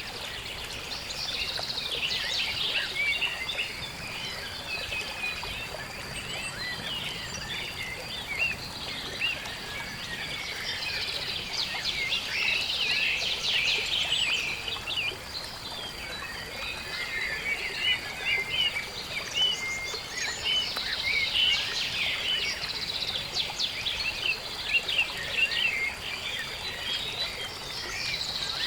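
Dawn chorus of many birds chirping and calling over one another in a marsh: a dense, unbroken layer of short high chirps and trills.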